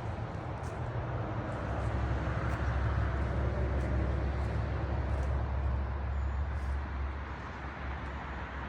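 Low, steady vehicle rumble that swells for a few seconds in the middle and then eases off.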